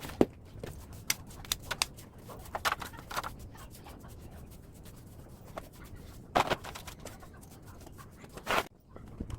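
Scrap metal from a dismantled air-conditioner outdoor unit being handled: irregular clicks, knocks and scraping, with a few sharper clanks, one just after the start and two more towards the end.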